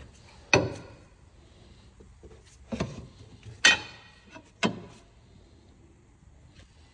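Four sharp knocks with a short ring after each, the loudest about halfway through, spaced roughly a second apart.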